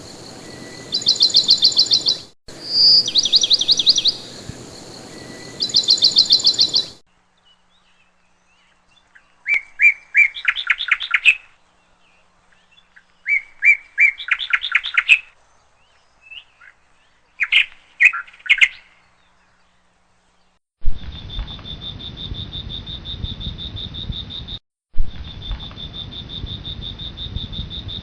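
Chirping calls in rapid trills: three loud bursts in the first seven seconds, then a pause and three more groups of chirps. Near the end a steady high-pitched trill sets in over a low rumble, breaking off briefly once.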